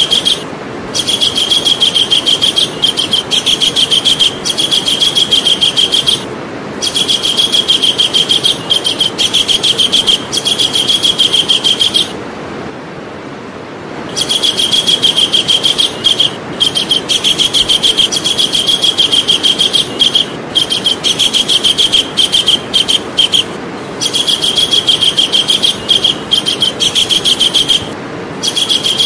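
Javan kingfisher calling: long, loud, high-pitched runs of very fast repeated notes, broken by several short pauses and one longer pause about twelve seconds in.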